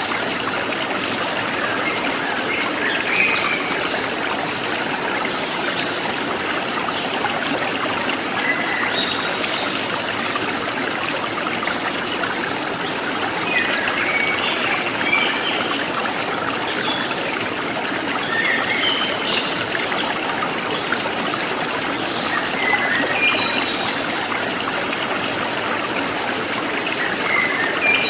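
Water running steadily like a small stream or trickle, with short high chirps scattered through it every few seconds.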